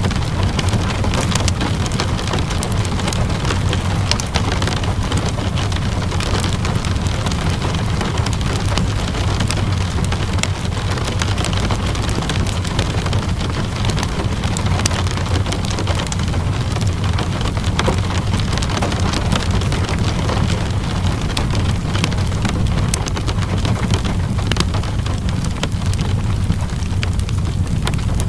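Steady rainfall with a low rumble, mixed with a crackling wood fire. Many small sharp clicks and pops are scattered through it.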